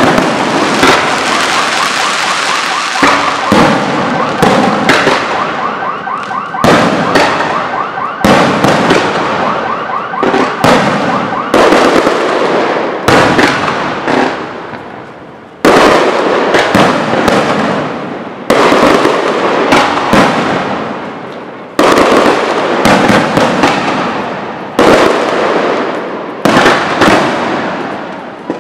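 Aerial firework shells fired in a rapid barrage from a truck-mounted electronic launcher: loud bangs every one to three seconds, each trailing off before the next burst.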